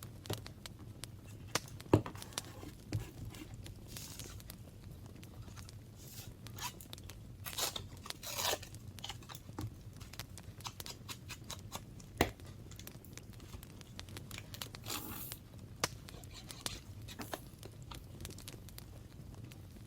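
Paper and craft materials handled on a desk while journaling: scattered light taps and clicks, a few short paper rustles and swishes, and a sharper knock about two seconds in and again about twelve seconds in.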